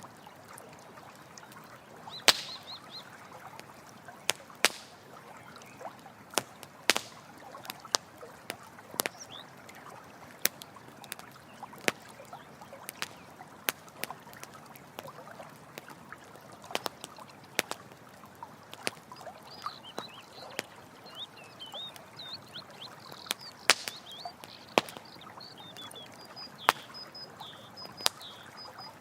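Campfire crackling with sharp, irregular pops over a steady trickle of running water. Short high-pitched chirping calls come in briefly about two seconds in and again through the second half.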